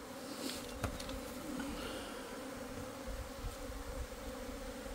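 Mass of honeybees buzzing in a steady hum outside the hive, with one small click about a second in. The bees have all come out, which seems to the beekeeper to mean the colony is about to leave in a natural swarm.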